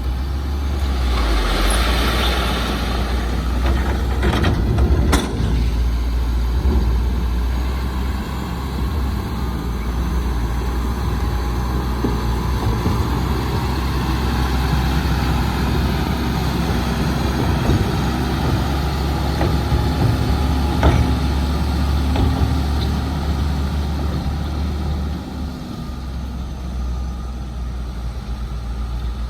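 Heavy diesel earthmoving machinery, a bulldozer with dump trucks, running steadily under load, with a burst of hiss about two seconds in and a few sharp metallic knocks. The engine noise eases near the end.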